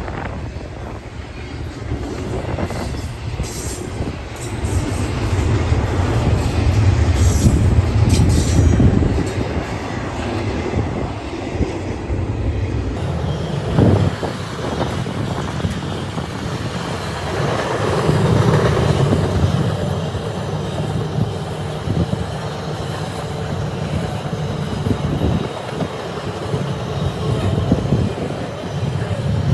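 Train rolling past close by: a steady rumble of wheels on the rails, with high-pitched wheel squeal in the first ten seconds or so.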